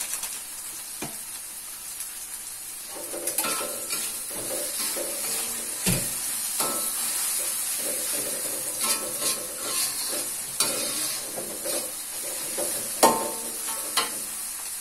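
Spice paste and chopped tomato sizzling in a hot wok while a slotted metal spatula stirs and scrapes through it. From about three seconds in come repeated scrapes, with sharp clinks of the spatula against the wok, the loudest near the end.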